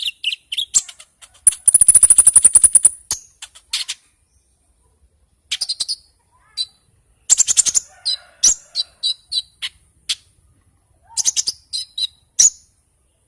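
A konin songbird singing in bursts of high, sharp chirps and whistles. About a second and a half in it gives a fast, high trill lasting over a second, and short pauses separate the phrases.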